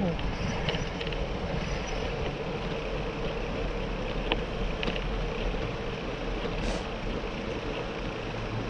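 Steady rolling noise of a bicycle on the move: tyres on the path and wind across the microphone, with a few light clicks.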